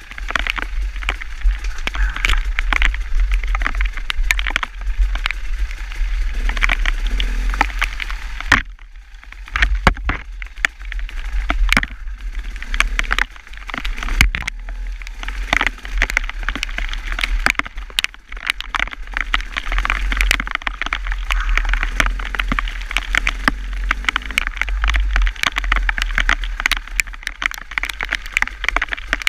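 Wind rumbling on the microphone under a dense stream of crackling clicks, dropping away briefly about nine seconds in.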